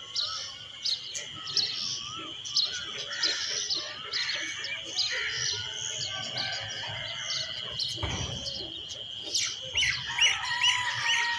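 Several birds chirping and calling over a steady high-pitched drone. Near the end one bird gives a quick series of repeated calls.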